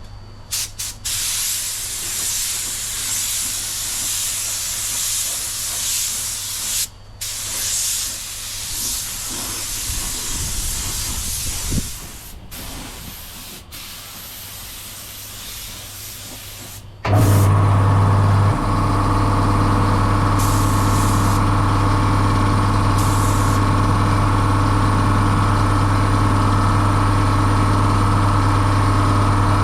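Spray gun hissing as clear coat is sprayed, in long passes with a few short breaks where the trigger is let off. About 17 seconds in, a loud steady motor hum starts suddenly and keeps running.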